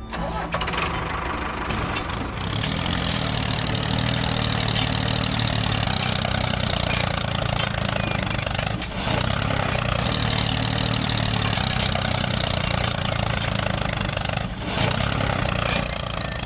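A motor running steadily: a low hum with a rattly noise over it, briefly dipping about nine seconds in.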